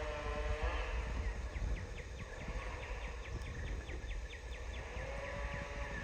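Wind rumbling on the microphone outdoors. Through most of it, a fast run of short high chirps repeats about four times a second.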